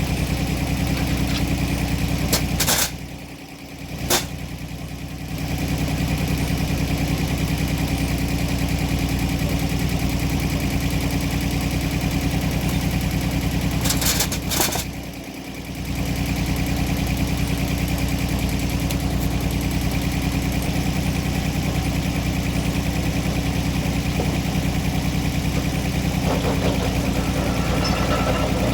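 Sawmill engine running at a steady speed. Twice it drops out briefly, each time with a couple of sharp clicks.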